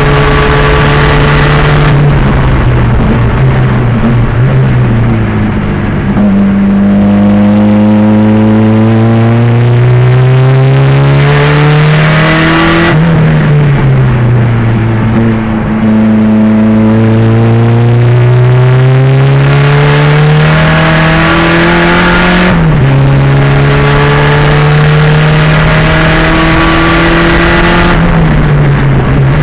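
1987 Pontiac Fiero's 2.0-litre turbocharged engine at racing speed, its pitch climbing on several long pulls. There is a sudden drop at a gear change near the end of the second pull, and slower falls in pitch each time the throttle is lifted.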